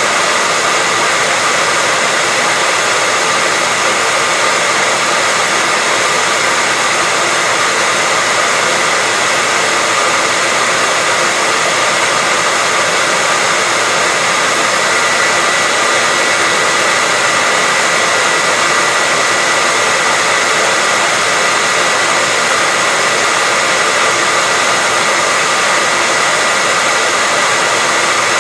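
Hairdryer running continuously at a constant setting: a steady, even rush of air with a thin whine held at one pitch on top.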